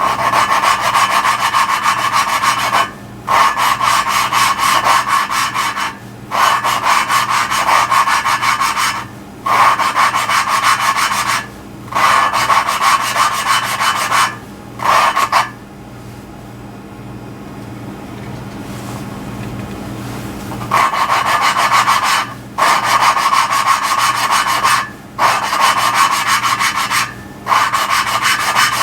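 Intake valve of a 2004 BMW 325xi cylinder head being hand-lapped into its seat with a suction-cup lapping stick and valve grinding compound, twirled back and forth. It makes a gritty rubbing in bouts of two to three seconds with short breaks. The sound goes quiet for several seconds a little past halfway, then resumes.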